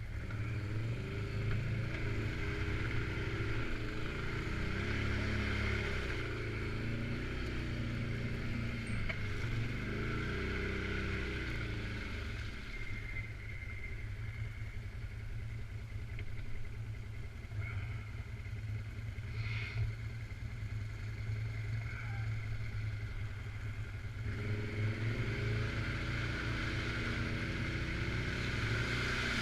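Suzuki King Quad 750 AXI ATV engine running while riding, its engine speed rising and falling. It settles lower for a stretch in the middle and picks up again near the end.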